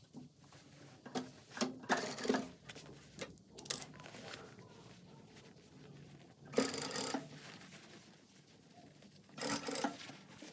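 Sewing machine running in several short bursts of stitching, each about half a second long, with pauses between them.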